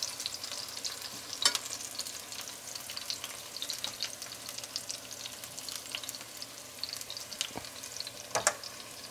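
Zucchini halves sizzling steadily in hot oil in a frying pan, with fine crackling. There are two sharper clicks, one about a second and a half in and one near the end, from the fork as browned pieces are lifted out.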